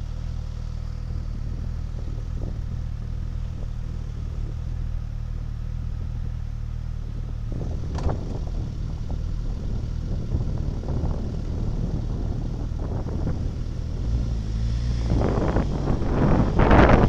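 Motor vehicle engine running with a steady low hum. Road and wind noise build and grow louder over the last couple of seconds.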